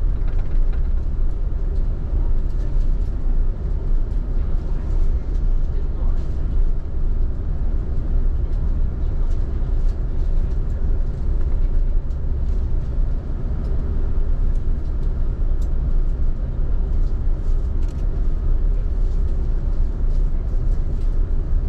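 Steady low rumble inside an Airbus A380's cabin on the ground before takeoff: engines at idle and cabin air running, with a few faint clicks.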